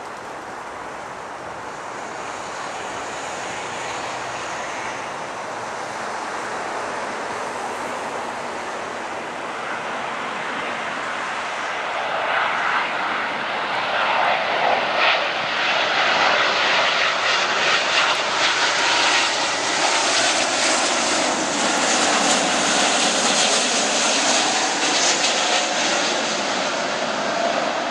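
Jet engines of a Boeing 777-236(ER) airliner on landing approach, its Rolls-Royce Trent 895 turbofans growing steadily louder over the first half and staying loud, with a slowly sweeping whoosh as the aircraft passes.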